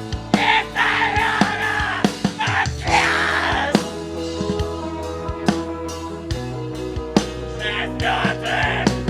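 Live heavy metal band playing loudly: drum kit hits over sustained low bass and guitar notes that shift pitch twice, with bursts of harsh screamed vocals.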